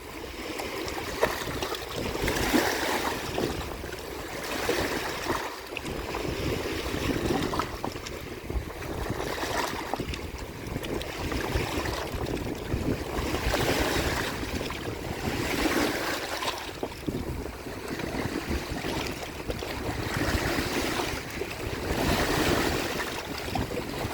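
Waves washing ashore, surging and falling back every few seconds, with wind rumbling on the microphone.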